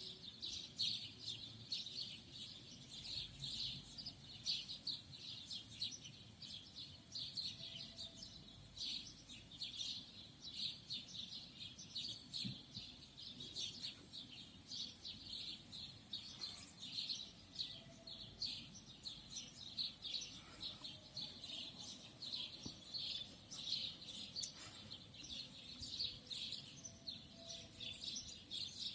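Many small songbirds chirping and twittering at once, a dense, high-pitched chorus of short notes that never lets up.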